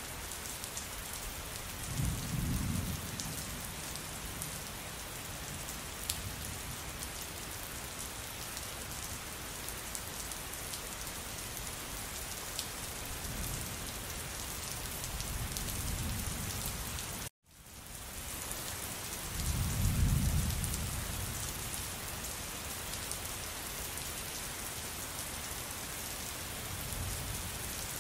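Steady heavy rain pattering on a surface, with several low rolls of thunder swelling up and dying away, the loudest about two-thirds of the way through. Just before that loudest roll the sound cuts out completely for an instant and fades back in.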